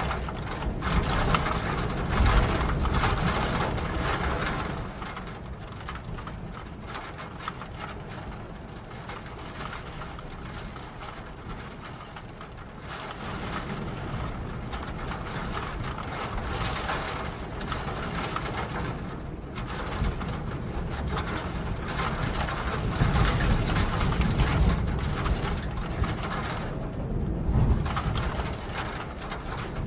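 Rain falling steadily, a dense crackle of drops over a low rumble, heavier near the start and again near the end, and lighter in the middle.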